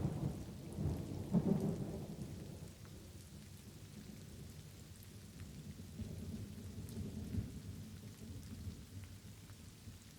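Light rain falling steadily with small drop ticks, and thunder rolling through it: a loud low rumble in the first two seconds, then a softer rumble again about six to seven seconds in.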